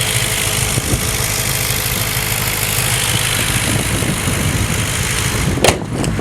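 Audi S4 4.2-litre V8, fitted with Milltek downpipes and a catless catback exhaust, idling steadily with a low rumble and hiss. A sharp click about five and a half seconds in.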